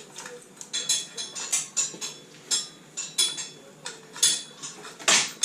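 Metal tools and parts clinking and knocking as they are handled, in irregular short strikes about two or three a second, some with a brief metallic ring, and a louder knock near the end.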